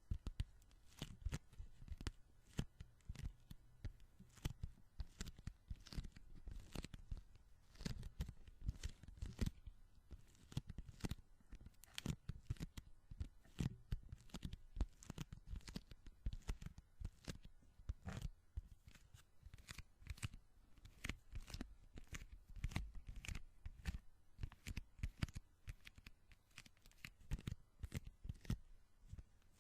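Sticky hands peeling and tapping close to the microphone: a dense, irregular run of short tacky crackles and pops, several a second.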